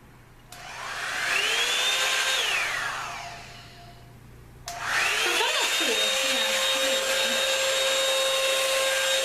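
Revlon One-Step hot-air brush dryer on its cool setting. It is switched on and whines up to speed, runs briefly and winds down, then is switched on again at about the middle and runs with a steady whine and airflow hiss.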